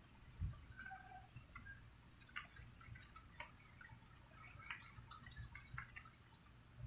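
Faint rain dripping: scattered drops ticking, with a few soft low thuds, the loudest about half a second in.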